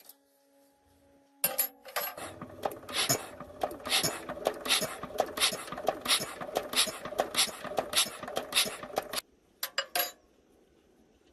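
Metal being worked with hand tools: a quick run of sharp metallic strikes, about three a second with scraping between them, that stops abruptly, followed by a few more clinks a moment later.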